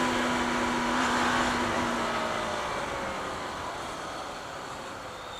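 Pulsar 200 NS's single-cylinder engine with road noise from the moving motorcycle, the engine note dropping and the whole sound fading steadily as the bike slows in traffic.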